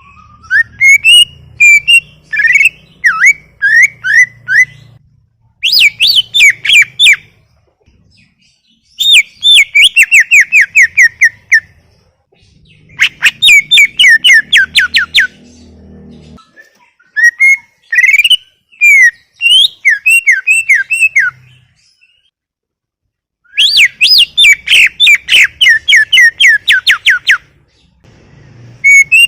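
Greater green leafbird (cucak ijo) in full song: loud phrases of rapid, sharply down-slurred whistled notes, about six phrases with short pauses between them.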